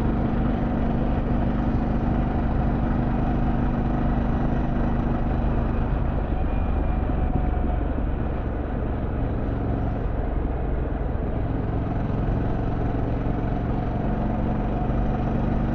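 Harley-Davidson Pan America Special's Revolution Max 1250 V-twin engine running at a steady cruise, over an even rush of wind and road noise. The engine eases off slightly about halfway through, then settles back.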